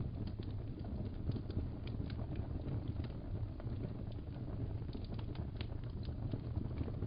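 Fireplace fire burning with a steady low rumble and scattered sharp crackles and pops throughout.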